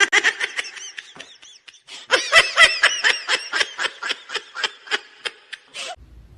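Laughter in a quick series of short, high-pitched bursts, about four or five a second, louder about two seconds in and fading out near the end.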